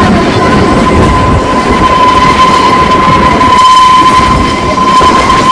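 Kalka–Shimla narrow-gauge toy train running, heard loud from aboard: a dense rumble and rattle of the carriage on the track, with a steady high-pitched whine held over it throughout.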